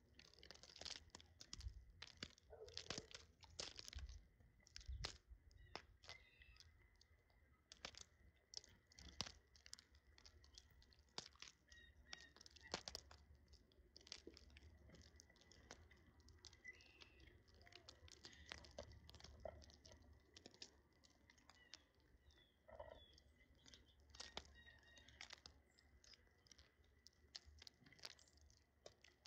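Small birds pecking at and cracking seed: faint, irregular clicks and crunches coming several times a second, with a few soft chirps.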